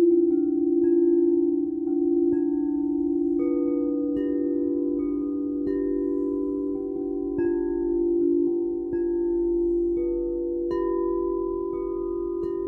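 Singing bowls ringing with long sustained low tones, while higher chime-like notes are struck one after another at different pitches, about one a second, each left to ring out.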